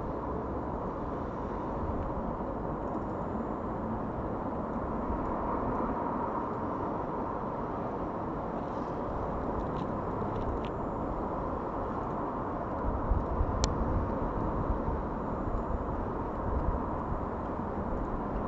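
Steady outdoor background rumble, with gusts of wind buffeting the microphone in the second half and a few faint clicks.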